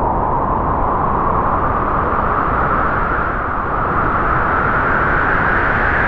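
A gust of wind blowing: a steady rushing noise whose pitch rises slowly as the gust builds.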